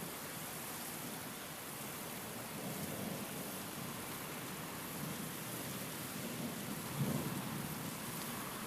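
Steady rain, with low rumbles of thunder swelling up twice; the second, about seven seconds in, is the louder.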